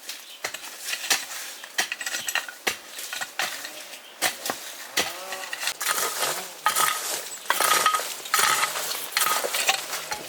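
An irregular string of sharp clinks and knocks, with a short ringing tone that recurs several times in the second half.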